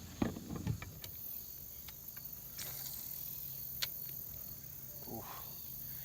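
Insects trilling steadily in the background, with a few light clicks and soft knocks.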